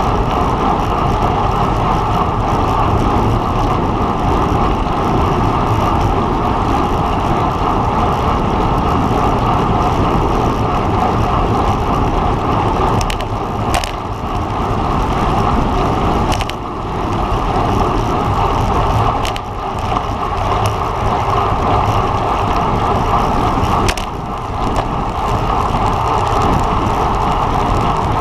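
Steady rush of wind and road noise on a road bike's camera microphone at racing speed, easing briefly a few times, with a few sharp clicks.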